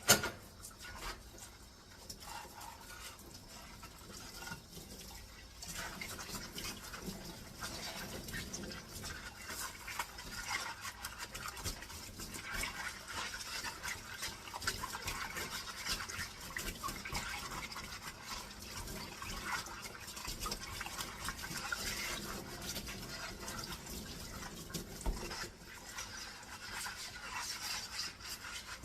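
Dishes being scrubbed at a sink, a dense rapid scratching with water dripping. A single sharp knock comes right at the start, and the scrubbing grows louder and steadier about six seconds in.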